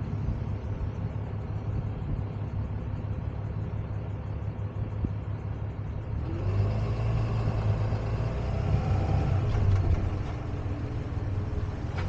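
Tow truck's engine running with a steady low rumble. About halfway through it grows louder and a rising whine comes in, as the truck pulls away and picks up speed.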